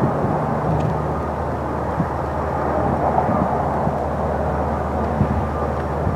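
Tractor engine running steadily, a continuous low hum, with a few short soft thumps.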